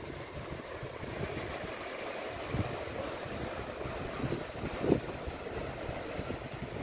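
Ocean surf washing steadily, with two soft low thumps, the second and louder one about five seconds in.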